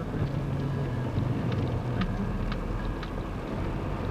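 Car engine running and road noise heard from inside the cabin while driving, a steady low hum with a few faint ticks.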